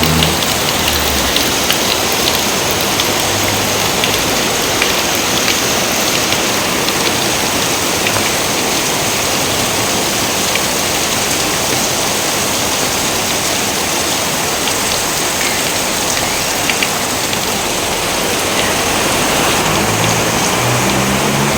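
Steady rain falling: a continuous, even hiss with scattered ticks of individual drops.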